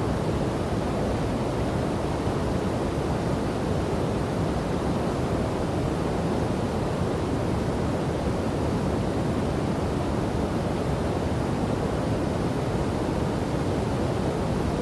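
Rushing water of a river and waterfall: a steady, deep, even rush with no breaks or separate splashes.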